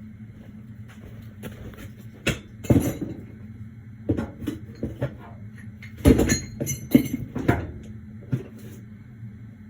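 Irregular clattering and knocking of hard, partly metal objects being handled and set down, loudest around the middle, over a steady low hum.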